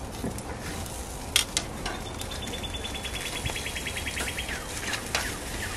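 Two sharp clicks about a second and a half in, then a small bird singing a high, even trill of rapid notes for about two and a half seconds, with a short falling chirp near the end over outdoor background noise.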